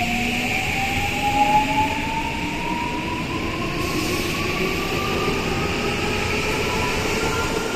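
Electric commuter train pulling away from the station, its traction motors whining in a steady rising pitch as it gathers speed, over the rumble of the wheels on the rails.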